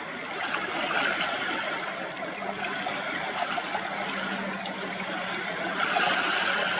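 Water washing and trickling in a steady rushing noise, with a faint steady low hum coming in about two and a half seconds in.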